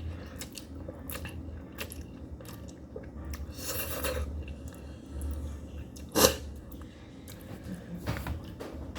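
A person chewing spicy noodles close to the microphone, with many small mouth clicks and one louder sharp sound about six seconds in.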